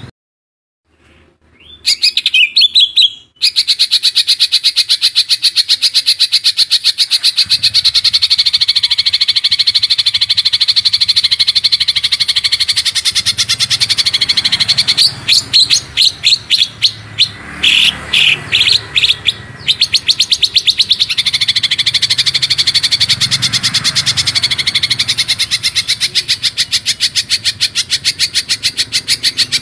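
Songbird singing a very fast rolling trill of high notes, kept up almost without a break: a 'roll speed' masteran song for teaching cucak ijo (greater green leafbirds). It begins after a brief silence with a short phrase, and in the middle breaks into a run of separate louder notes before the trill resumes.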